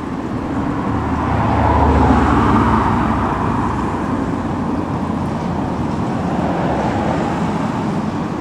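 Road traffic noise, with a motor vehicle's engine rumble swelling for a couple of seconds about one to three seconds in. No siren is sounding.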